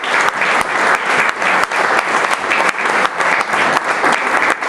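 Audience applauding, dense clapping that keeps up steadily.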